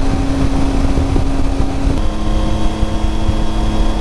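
Triumph Tiger 800 XRx's three-cylinder engine running at road speed under heavy wind and road rumble; about halfway through the engine note steps down to a lower pitch.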